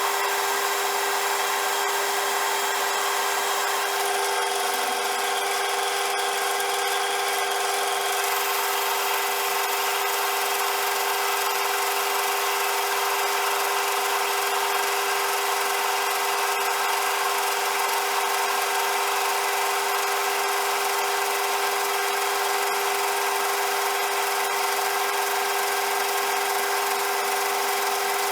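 CJM360 metal lathe running steadily while turning a shaft: a constant whine from the motor and gears over an even cutting hiss.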